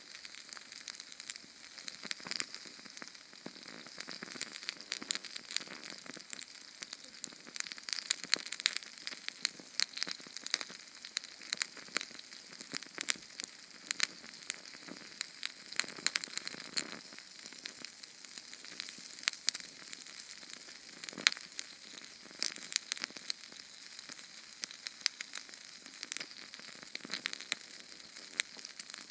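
Small Sterno canned-fuel flame burning, with a steady hiss and dense, irregular crackling and popping. A few pops stand out louder than the rest.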